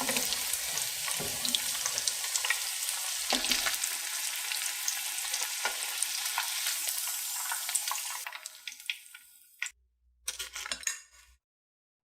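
Hot oil sizzling and crackling steadily around battered corn dogs as they deep-fry. The sizzle fades after about eight seconds and cuts off, returns briefly about ten seconds in, then stops.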